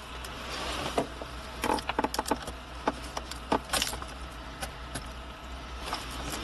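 A quick run of sharp clicks and knocks, thickest in the middle few seconds, over a steady low hum.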